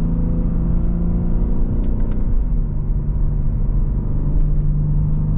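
BMW G80 M3's twin-turbo inline-six, fitted with an aftermarket single midpipe, running at a steady cruise with a low drone; its pitch drops slightly about halfway through.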